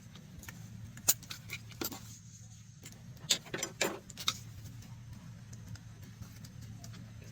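Hand tools and metal engine parts knocking together: a handful of sharp metallic clinks, several in quick succession around the middle, over a steady low hum.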